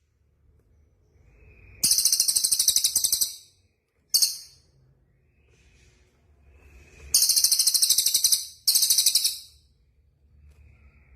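Songbird song: loud, very high-pitched rapid trills in four phrases, one starting a couple of seconds in and lasting about a second and a half, a short burst near four seconds, and two back to back between about seven and ten seconds, with faint softer chirps in between.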